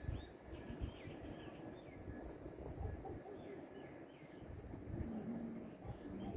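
Birds calling with many short, high chirps that glide in pitch, over a low rumble of wind on the microphone; a low steady hum comes in about five seconds in.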